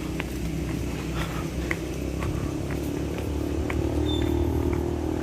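A motor vehicle engine running steadily, growing louder about four seconds in, with a few light clicks over it.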